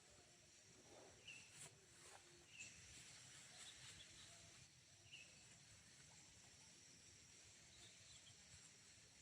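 Near silence: faint forest ambience with a few short, high chirps and some light clicks.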